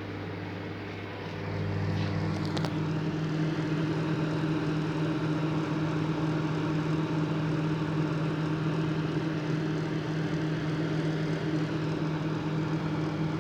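Microwave oven running: a steady hum that shifts in pitch and gets louder about a second and a half in, with a couple of faint clicks around two seconds.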